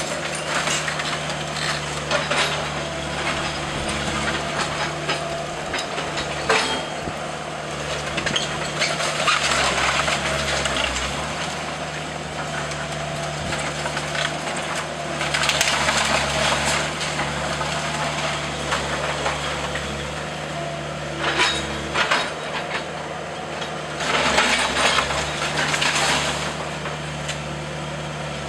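Demolition of a wood-framed house: a heavy machine's diesel engine runs steadily while timber is crushed and splintered in repeated crackling bursts, several seconds apart.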